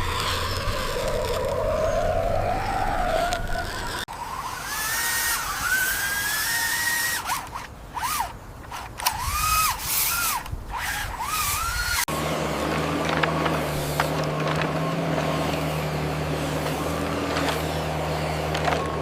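Small electric motors of radio-controlled toy vehicles, in three abruptly cut sections. First a steady motor noise, then a whine rising and falling in pitch in short sweeps as the motors speed up and slow down, and after a sudden cut near the middle a steady low hum.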